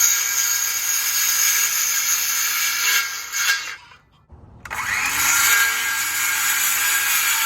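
Handheld power tool cutting through hardware cloth (welded wire mesh), its motor running steadily with a high hiss. It stops for a moment about four seconds in, then spins back up and cuts on.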